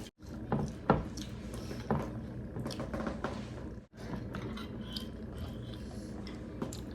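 Close-up eating sounds: wet chewing and squishing of rice and curry, with scattered small clicks and a sharper tap about a second in.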